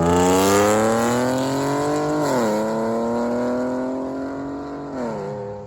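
A car accelerating hard, its engine pitch climbing, dropping at an upshift about two seconds in, then climbing again. Near the end the engine eases off and fades away.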